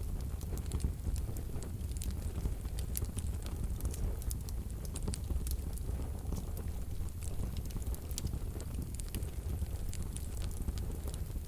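Wood fire burning in a wood-burning stove: a steady low rumble of flames with frequent small, sharp crackles and pops of the burning logs.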